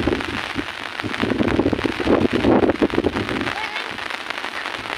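Heavy rain pattering on an umbrella overhead, a dense spatter of drop impacts that swells louder for a couple of seconds in the middle.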